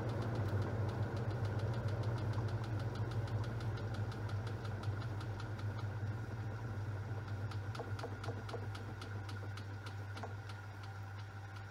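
Top-loading washing machine running: a steady low motor hum with rapid, evenly spaced clicking, slowly getting quieter.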